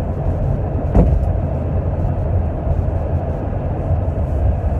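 Steady low rumble of a moving vehicle, with a single short thump about a second in.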